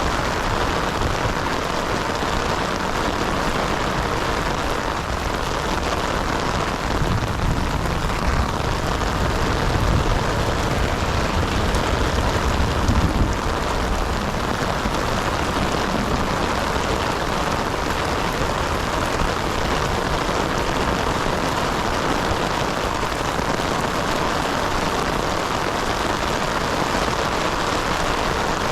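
Heavy rain falling steadily. A low rumble swells under it from about 7 to 13 seconds in.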